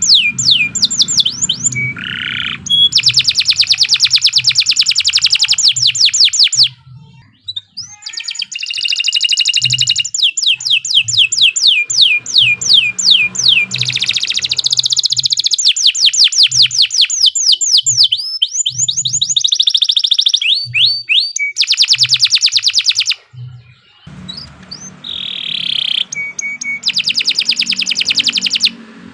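Domestic canary singing a long song of rapid trills and rolling repeated phrases, with short pauses about seven seconds in and again near twenty-three seconds.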